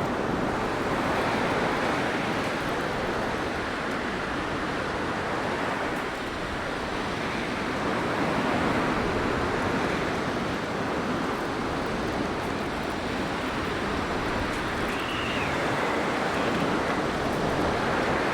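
Blizzard wind: a steady rush of noise that swells and eases in slow gusts, with a faint brief whistle about fifteen seconds in.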